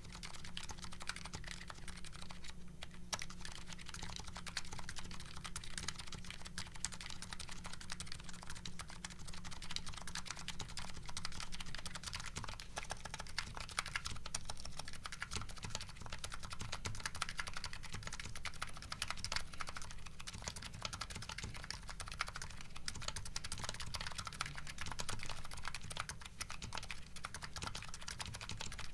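Continuous fast typing on a Nuxros Kraze custom keyboard with MetaKeebs MetaPulse electrocapacitive switches, a dense patter of key clicks. The keys wear GMK Hennessey keycaps, which change to JCS Arabic keycaps about eleven seconds in.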